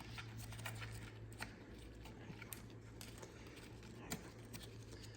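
Faint, scattered small clicks and rattles of a plastic wiring-harness wire and connector being handled and clipped into place, over a steady low hum.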